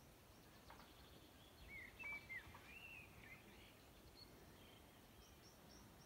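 Faint birdsong in a quiet garden: a short warbled phrase of gliding notes about two seconds in, then a run of short high chirps repeated a few times a second near the end.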